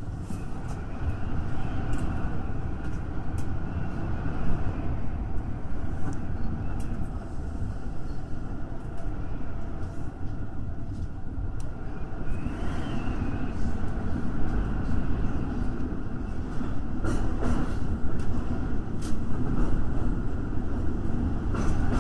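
Electric commuter train running at reduced speed under a strong-wind restriction: a steady low rumble of wheels on rail, with scattered sharp clicks.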